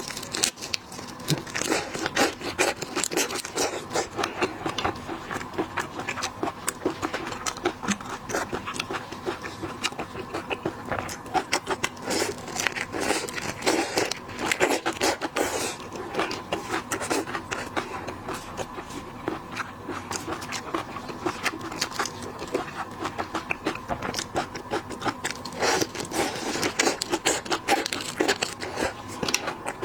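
Close-miked eating of seafood: a dense, unbroken run of crackles, clicks and scrapes from shells and chewing.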